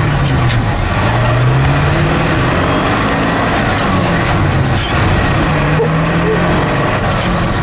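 Ford 7.3 L Powerstroke turbo diesel pulling the truck along under throttle, heard from inside the cab. Its note climbs and drops back a few times.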